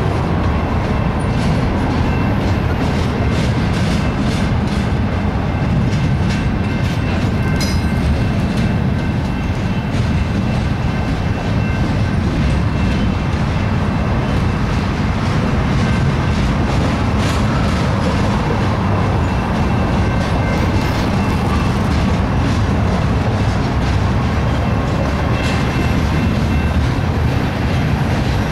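BNSF double-stack intermodal train of well cars rolling past: a steady rumble of steel wheels on rail, with scattered clicks as wheels cross rail joints and a faint high steady ringing tone over it.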